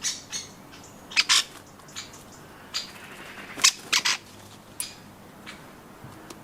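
Birds at nuts, with a scatter of short, sharp clicks and knocks at irregular intervals, the loudest in quick pairs about a second in and again around three and a half to four seconds in.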